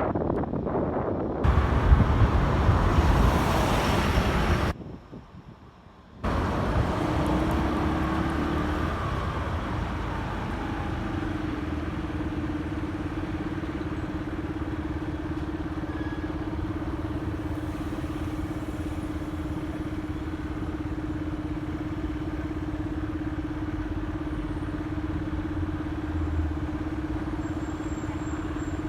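Motorcycle on a city street: engine and rushing noise, dropping out sharply for about a second and a half some five seconds in. It then settles into a steadier, quieter engine sound with a constant hum.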